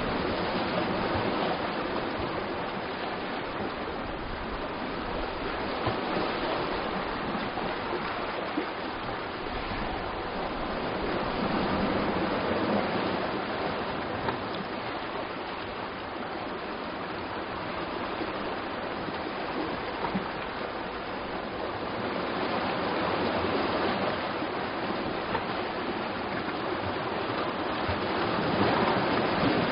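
Sea surf washing against a rocky shore: a steady wash of water that swells and eases every ten seconds or so, with a few light splashes.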